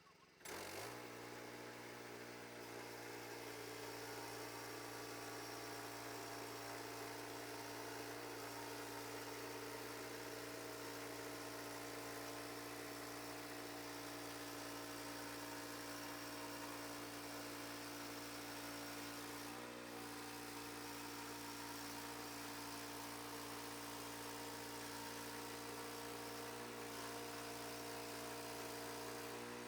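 An engine comes in suddenly about half a second in and then runs at a steady, unchanging speed, an even hum.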